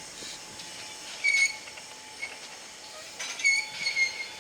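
Narrow-gauge train wheels squealing against the rails in several short, high-pitched squeals, once about a second in and again in a longer cluster near the end, over the steady noise of the train.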